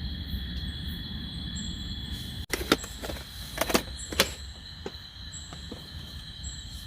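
Insects, such as crickets, trilling steadily with short repeated higher chirps over a low background rush. After about two and a half seconds come several sharp knocks and clicks.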